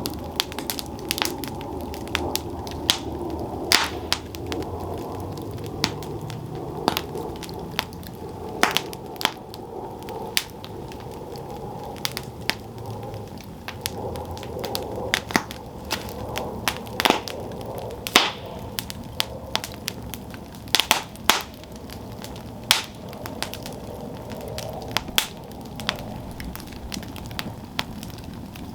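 Campfire burning: a steady low rush of flames with frequent sharp, irregular wood crackles and pops, a few much louder than the rest.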